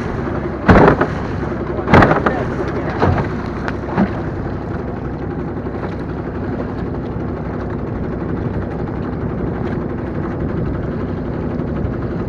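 1915 Evinrude Rowboat outboard motor's single-cylinder two-stroke engine running steadily, with several loud thumps in the first four seconds.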